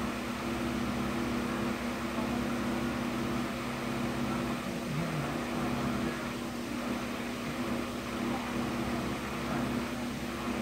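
Transformer soldering gun humming steadily while it is held on, a mains buzz with several overtones, as fine solder joints on a TV driver-board connector are reflowed.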